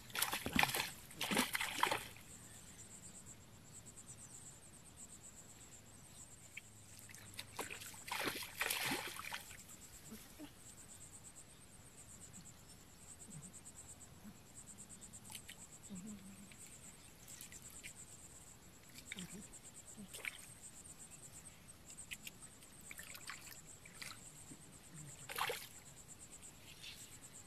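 Water splashing and sloshing in a few loud bursts, the strongest in the first two seconds and again about eight seconds in, over crickets chirping steadily.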